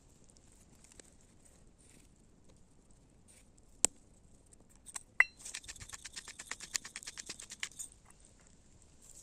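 A single sharp click about four seconds in, then a tap with a short metallic ring, followed by a quick, even run of small clicks, about ten a second, lasting two to three seconds.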